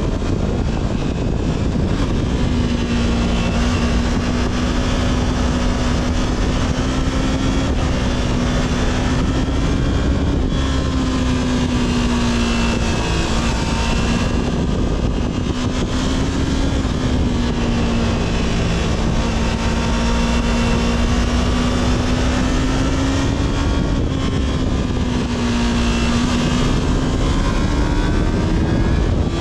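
Yamaha R3's 321 cc parallel-twin engine through its stock exhaust, running under way at a fairly steady pitch with small rises and dips, over a steady rush of wind noise.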